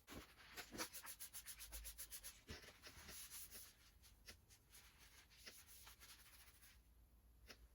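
Faint, quick back-and-forth scrubbing on a Mini's rear radius arm as it is washed down, about ten strokes a second for roughly three seconds, then only a few scattered faint scrapes.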